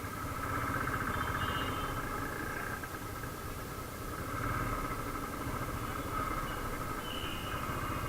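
Motorcycle engine running steadily, with a continuous low rumble and street noise around it.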